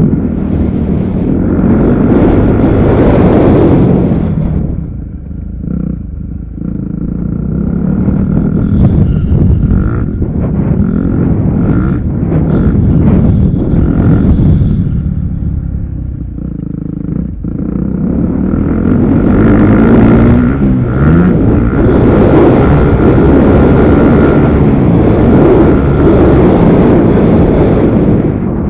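Motocross dirt bike engines running and revving on a track. The sound swells and fades as bikes come and go, with a lull about five seconds in and a long loud stretch near the end.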